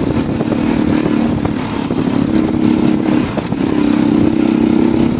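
Motorcycle engine running steadily under way; it eases off briefly about three seconds in and picks up again at a slightly higher pitch.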